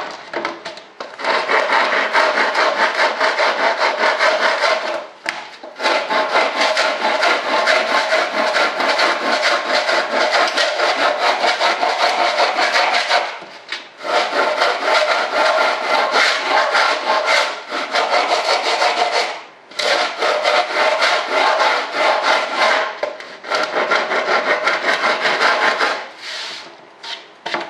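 Coarse sandpaper rubbed rapidly back and forth by hand across the edge of a cured fiberglass-and-resin part, trimming it flush, in several long runs broken by short pauses.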